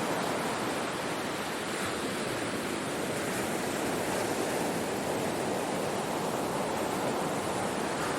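Ocean surf washing on a shore as a steady, continuous rush of noise, without separate wave crashes standing out.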